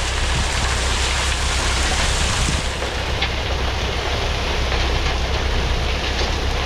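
Steady hiss of 53 road-base gravel pouring from a dump truck's bed as the truck spreads it, over the low, constant run of the diesel engine.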